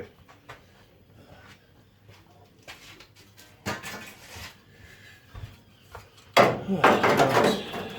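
Pieces of sheet steel being rummaged through and handled, giving scattered light clinks and scrapes, with a louder metal clatter about six and a half seconds in.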